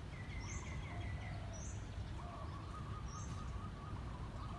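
Several birds calling: a short high note repeats about once a second, a quick run of chirps comes near the start, and a longer trill follows over the second half, over a steady low background rumble.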